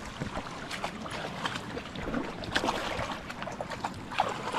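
Shallow creek water running, with irregular sloshing splashes and a few short sharp knocks, loudest about halfway through and near the end.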